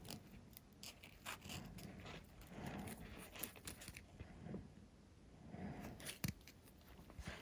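Faint workbench handling sounds from hands working on a foam model-plane airframe: scattered small clicks, scrapes and rustles, with a sharper click about six seconds in.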